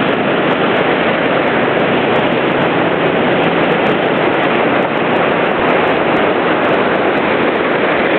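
Floodwater rushing through a flooded river fish ladder: a loud, steady rush of water.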